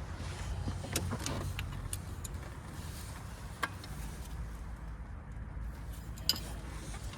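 A few light metallic clicks and clinks of car parts being handled during engine work, over a steady low hum.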